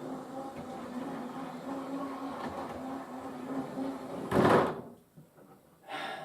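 Model railway locomotive's electric motor running along the track with a steady hum, then a loud short clunk about four and a half seconds in, after which the running sound stops; another short knock follows near the end.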